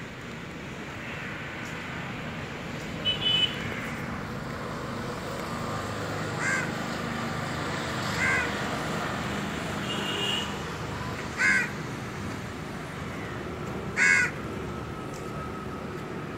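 A bird calling: four short calls a few seconds apart, with a couple of higher chirps between them, over steady outdoor background noise.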